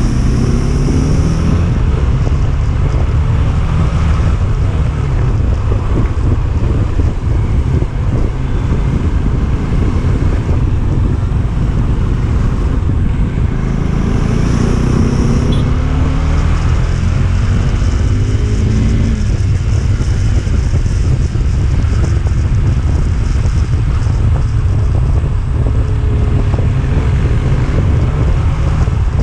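A motorcycle being ridden, its engine note rising several times as it revs up through the gears, under heavy wind noise on the microphone.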